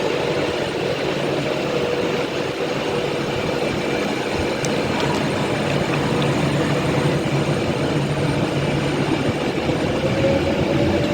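Class 390 Pendolino electric train pulling out of the station: steady running noise with a hum that rises slightly in pitch near the end, getting a little louder.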